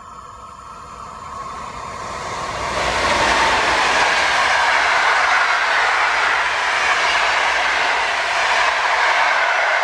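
Electric-hauled passenger train passing close at speed: a rushing wheel-on-rail noise that builds over the first three seconds as the locomotive comes by, then holds steady and loud as the coaches roll past.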